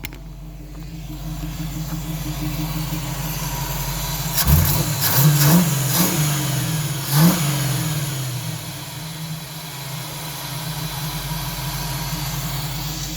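302 cubic-inch V8 idling, then revved in three quick blips starting a little over four seconds in and settling back to a steady idle. The owner cannot tell whether it is missing, running rich or has its timing off.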